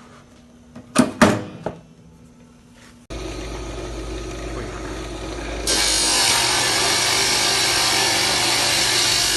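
A few sharp knocks about a second in. Then a woodworking power tool switches on with a steady hum about three seconds in, and near six seconds it cuts into the wood or MDF board with a much louder hissing cutting sound.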